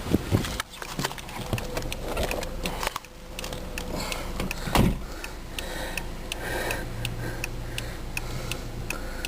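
Clunks and handling noise, then a car door shutting with a loud thump about five seconds in, followed by a steady ticking about twice a second from the 2003 Volkswagen Jetta's turn-signal flasher.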